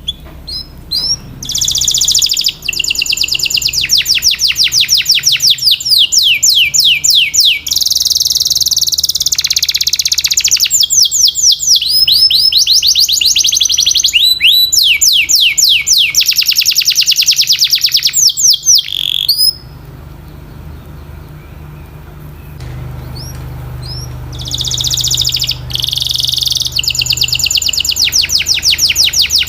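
Domestic canary singing long, fast trills of rapidly repeated rising and falling notes. The song pauses for a few seconds past the middle with only scattered notes, then the trilling resumes near the end, over a low steady hum.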